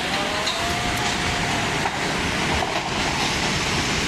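Loud, steady rush of floodwater pouring through a city street, with a faint high held tone over it for the first two seconds or so.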